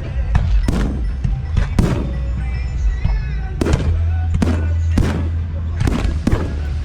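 Fireworks going off in quick succession, about nine sharp bangs in under seven seconds, over steadily playing music with a strong low bass.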